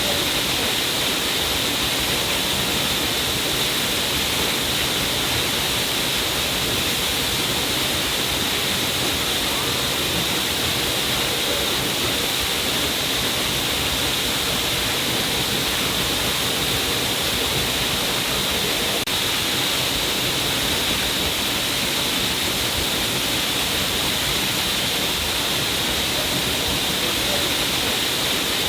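Water falling down a cliff face in a steady, unbroken splashing rush, brightest in the upper range.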